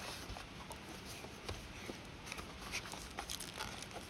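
Faint, scattered clicks and light rustles of hands handling plastic-wrapped earbuds and their packaging.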